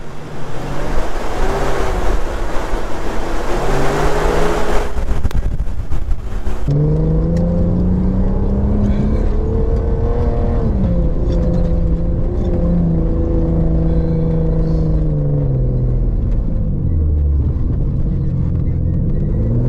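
An off-road 4x4's engine driving through sand, its note dropping and climbing again several times as revs and gears change. For the first six seconds or so a loud rushing noise lies over it, then cuts off abruptly and leaves the engine plain.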